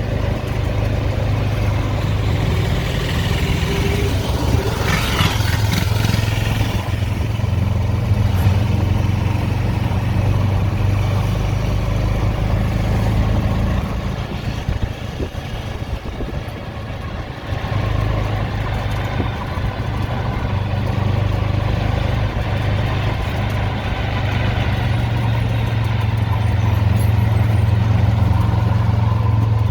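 A motor vehicle running steadily: a low engine hum under road noise. There is a brief louder rush about five seconds in, and the hum eases for a few seconds around the middle.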